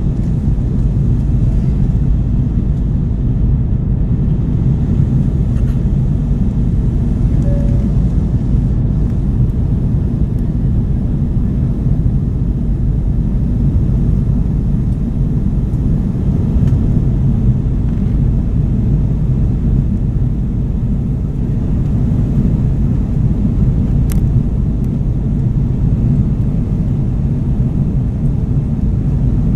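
Steady low rumble of engine and airflow noise inside the cabin of an Airbus A330 airliner under way.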